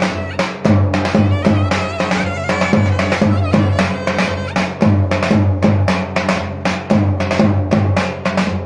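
Turkish davul and clarinet dance music: the clarinet plays a wavering, ornamented melody over fast, dense drumbeats and a steady bass.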